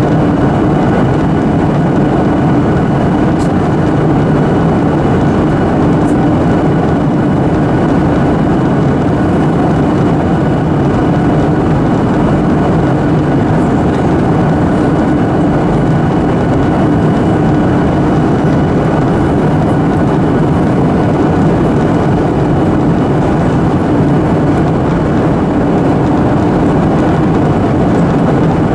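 Steady engine and airflow roar of a Boeing 737-800 in flight, heard inside the passenger cabin, with faint steady tones running through it.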